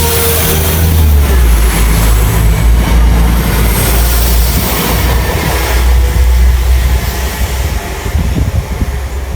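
A train passing at speed, with a loud, steady rumble and rail noise that begin to fade over the last couple of seconds.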